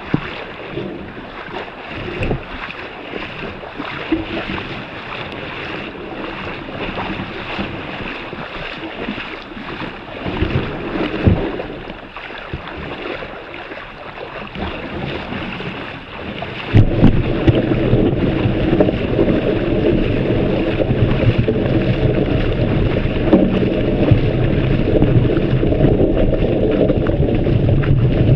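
Feet wading knee-deep through floodwater, the water sloshing and splashing with each step, with some wind noise on the microphone. About seventeen seconds in the sloshing becomes louder and denser.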